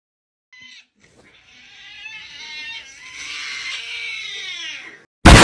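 A cat's short mew, then a long drawn-out yowl that rises and then falls in pitch over about four seconds. Near the end it is cut off by a sudden, extremely loud blast of noise.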